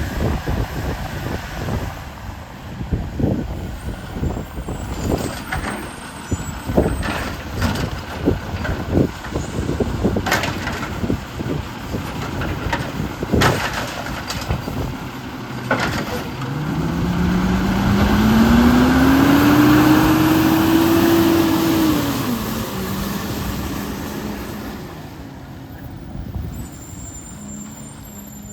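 Autocar WX64 garbage truck with a Heil 7000 body at work: a run of metallic clanks and knocks from the dumping and loading for the first half, then the engine revs up in a steady rising tone, holds, and drops back to idle about two thirds of the way in.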